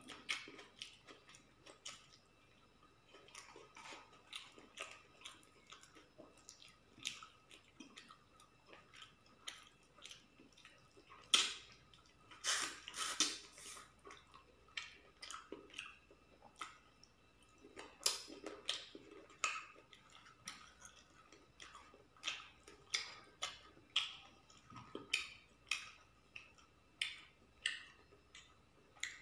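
Close-up chewing of rice and chicken curry eaten by hand: an irregular string of short clicking mouth sounds, several a second, with a louder cluster near the middle.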